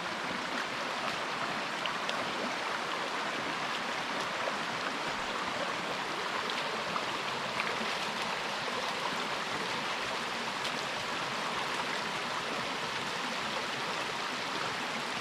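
Creek water flowing steadily, a constant rushing babble, with a few faint ticks over it.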